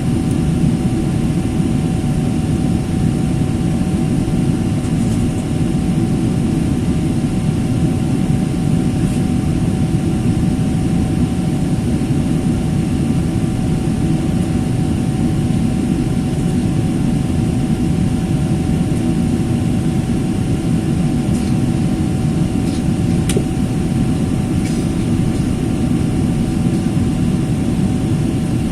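Steady airliner cabin noise: the constant drone of jet engines and airflow, deep and even, with a faint steady hum above it and a few light ticks near the end.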